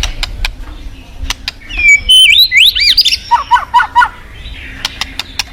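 White-rumped shama singing: sharp clicks, a loud whistled phrase of rising and falling notes about two seconds in, then a quick run of repeated notes. Beneath it runs a steady low rush of flowing water.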